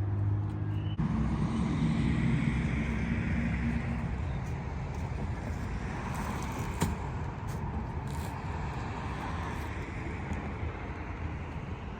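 Motor vehicle running, a steady low engine rumble with road noise, changing abruptly about a second in.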